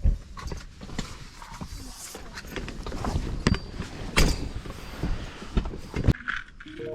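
Irregular handling and rustling noises with several sharp knocks, the loudest about four seconds in.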